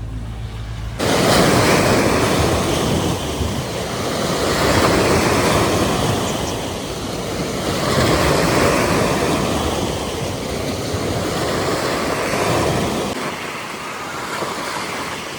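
Sea waves washing onto the shore, the noise swelling and falling back every three to four seconds. A low steady hum cuts off abruptly about a second in.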